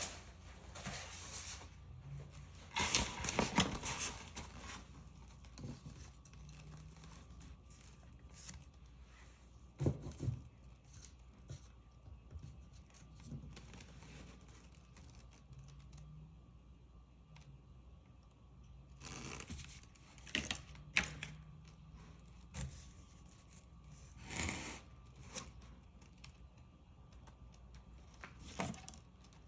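Scattered rustles, scrapes and knocks from hands handling a paint-pouring setup. A few louder bursts come several seconds apart, over a faint low hum.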